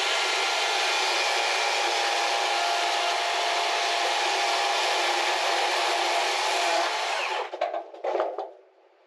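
A power saw cuts steadily through black locust wood, then stops about seven and a half seconds in, followed by a few short clatters.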